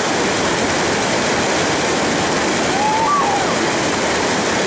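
Stream water rushing over rocks, a steady even noise. A short pitched call rises and falls about three seconds in.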